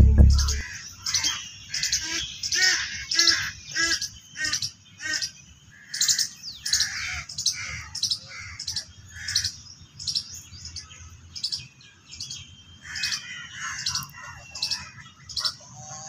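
Birds chirping in short calls repeated about twice a second, in runs that fade and start again; a music track cuts off in the first half-second.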